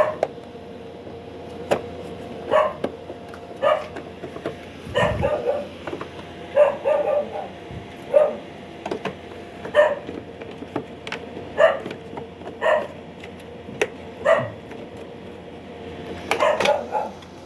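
A dog barking repeatedly, short barks about once a second, over a faint steady hum.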